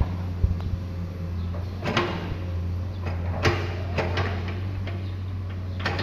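Komatsu excavator's diesel engine running with a steady low drone, broken by sharp metallic knocks from the working gear about every second or so.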